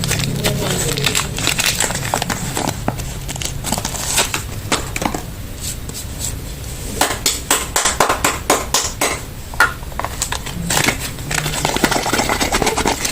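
Crinkling and crackling of soap packaging being opened by hand, with many quick clicks and light taps.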